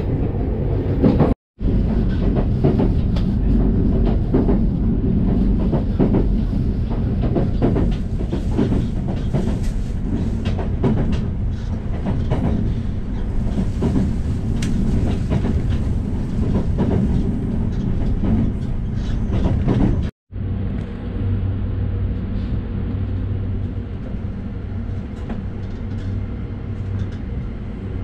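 Inside a diesel railcar on a single-track non-electrified line: a steady low rumble of the engine and running gear, with frequent clicks and clatter of wheels over rail joints. The sound cuts out for a moment twice; after the second break, about two-thirds through, it settles to a steadier low hum as the train runs into a station.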